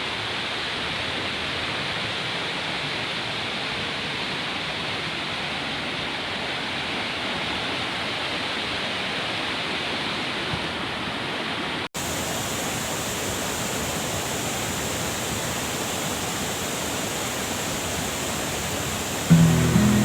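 Steady rush of a waterfall, cut off for an instant about twelve seconds in and then going on with a brighter, hissier tone. Acoustic guitar music starts just before the end.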